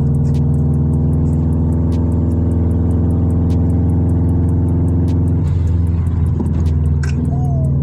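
Straight-piped Subaru Impreza WRX flat-four engine running under steady revs while driving. About five and a half seconds in the note abruptly breaks up and changes, then settles again.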